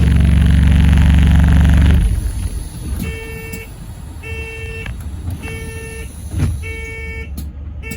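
Alexander Dennis Enviro400 MMC hybrid bus heard from inside: its engine drone is loud for the first two seconds, then drops away to a low rumble. Four electronic beeps follow, about a second apart, with a dull thump near the end.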